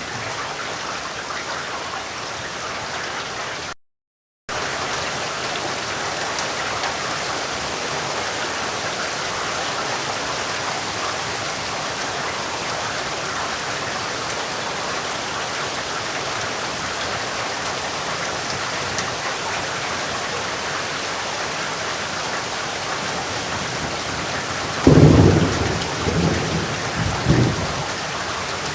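Steady heavy rainfall, with a half-second dropout to silence about four seconds in. Near the end a clap of thunder breaks out and rumbles on in a few smaller peals for a couple of seconds.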